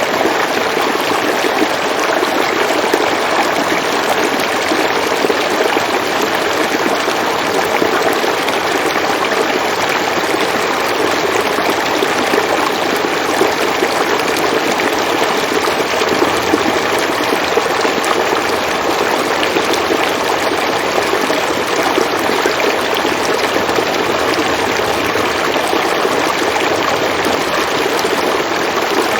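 River water flowing steadily over rocks, an even, unbroken rushing babble.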